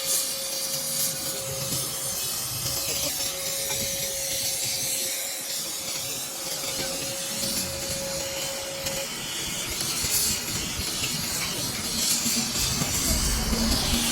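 Gas welding torch flame hissing steadily, with a thin steady tone under the hiss that stops about nine seconds in. A low rumble comes in near the end.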